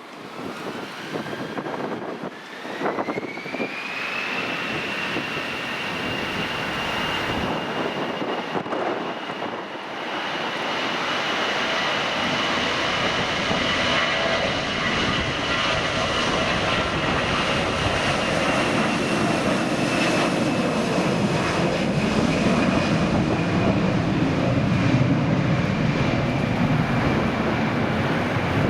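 Airliner's engines spooling up: a whine rises about two to four seconds in, then holds high and steady while a deeper rumble grows louder toward the end.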